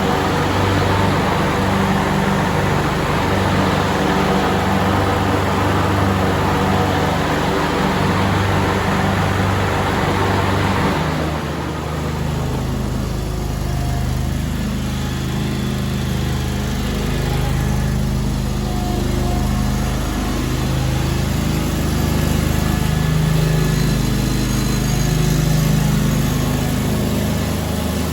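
John Deere X485 garden tractor's two-cylinder liquid-cooled Kawasaki engine running steadily, with a broad rushing noise on top for the first eleven seconds or so that then drops away.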